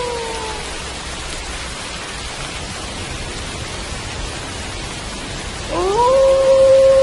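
Steady rain. A wolf's howl trails off with a falling pitch right at the start. Near the end, another howl rises quickly and holds one long, steady note.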